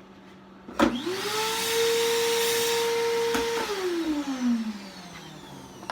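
A high-speed power tool's motor starts abruptly and runs at a steady whine with a hissing rush for about three seconds. It is then released and winds down, its pitch falling as it coasts to a stop.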